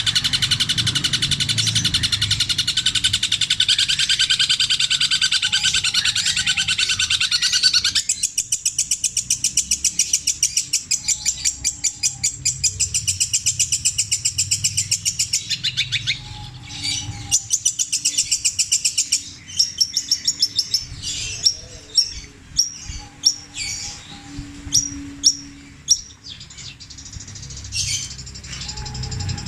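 Long-tailed shrike (cendet) singing a loud, high song stitched from mimicked calls of other birds. It opens with a dense rapid chatter, switches about eight seconds in to a very fast run of evenly repeated notes, and after the midpoint breaks into separate sharp notes spaced apart.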